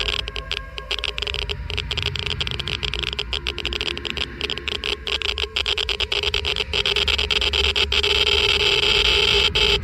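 Geiger counter clicking rapidly and irregularly, its clicks thickening into an almost continuous crackle about seven seconds in, over a steady humming tone.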